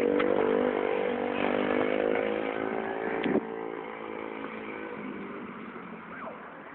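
Dirt bike engine running steadily. About three seconds in its sound drops off sharply and stays quieter, as the bike moves away.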